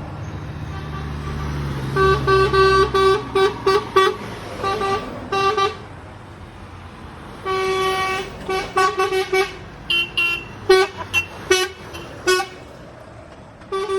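Lorry air horns tooting in repeated short blasts, in two runs starting about 2 and 7.5 seconds in, with a higher-pitched horn joining near the end. A low truck engine rumble is heard in the first few seconds.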